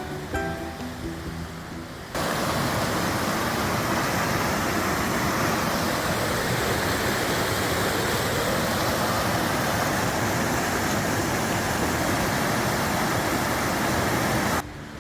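Rushing river water, a loud, even rush that cuts in abruptly about two seconds in and stops suddenly near the end. Background ukulele music plays before it.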